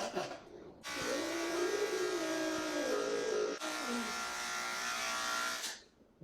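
Electric pet clippers buzzing about a second in and cutting off near the end while a British Longhair cat yowls in drawn-out, wavering complaint under them as its mats are shaved out.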